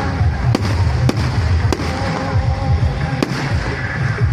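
Fireworks going off: sharp bangs every second or so over a continuous low rumble of further explosions.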